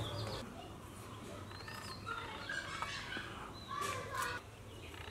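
Birds chirping: short, arching calls repeat every couple of seconds over outdoor background noise and a low hum.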